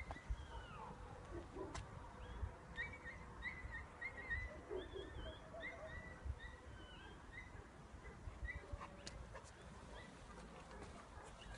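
Small birds chirping faintly, with a run of short high chirps through the middle, over a low rumble.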